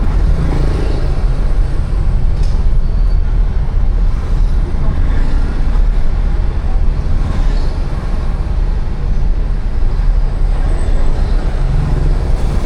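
City street traffic: a steady rumble of passing cars, motorbikes and buses.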